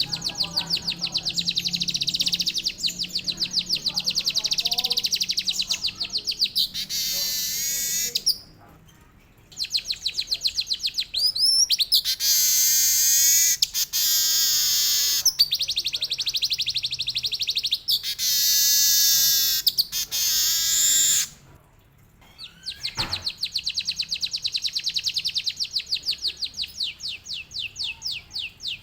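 Manyar (weaver bird) singing a long, fast rolling song of rapidly repeated high notes with canary-like trills, broken twice by short pauses.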